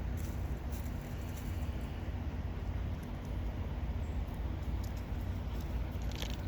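Mini truck running steadily with a low engine and road rumble.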